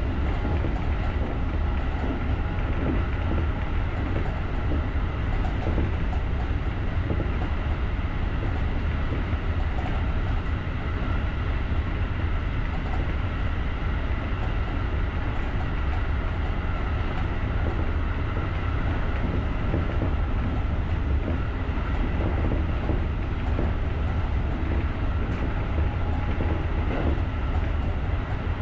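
Electric commuter train running steadily at speed, heard from the driver's cab: a constant low rumble of wheels on rail with faint steady high tones above it.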